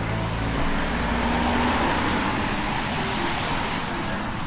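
A motor vehicle passing: a low engine hum fades about a second in, under a steady rushing noise that swells through the middle.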